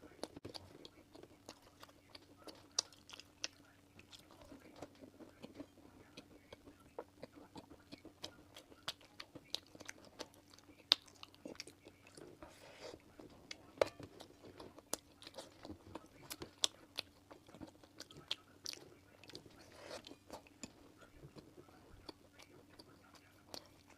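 Close-miked biting and chewing of a five-kernel (wuren) mooncake: a run of short, sharp mouth clicks and crunches over a faint steady hum.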